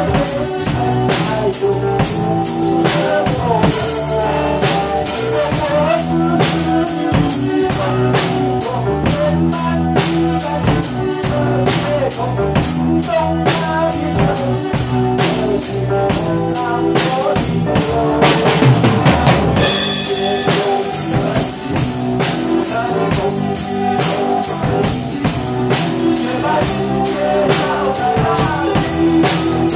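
Drum kit played over a pop-ballad backing track: a steady kick, snare and rimshot beat. Cymbal crashes come about four seconds in and again after a dense fill about two-thirds of the way through.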